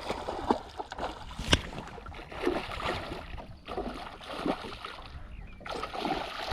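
Water splashing and sloshing around a small boat while a hooked pike is played in, with one sharp knock about a second and a half in.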